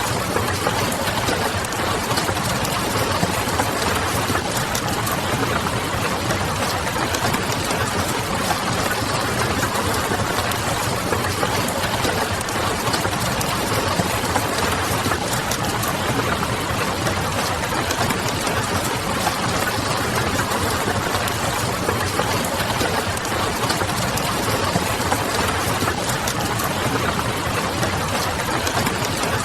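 Steady rain pattering mixed with the irregular crackle of a wood fire, over a low distant hum.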